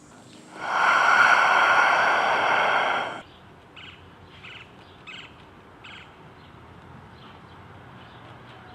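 A person takes a long, loud gasping breath lasting about two and a half seconds, then several short bird chirps follow.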